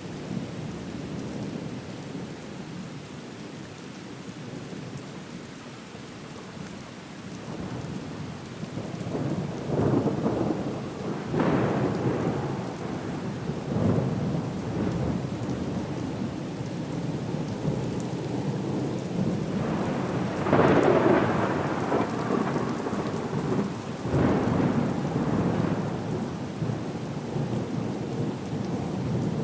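Steady rain with rolls of thunder swelling up several times, the loudest about two-thirds of the way through.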